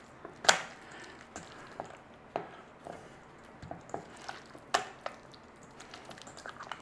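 Chicken breast being turned and coated in mayonnaise in a bowl: scattered soft wet squishes and light knocks against the bowl, the sharpest about half a second in and again near five seconds.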